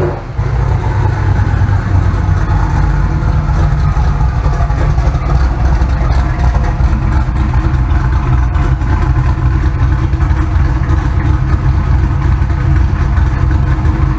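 An engine running steadily at an even speed, mostly low in pitch, with no revving.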